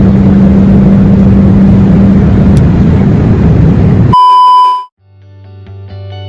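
Loud steady noise inside a jet airliner's cabin with a low, steady hum underneath. It cuts off abruptly after about four seconds into a short electronic beep, and music with a deep bass note starts near the end.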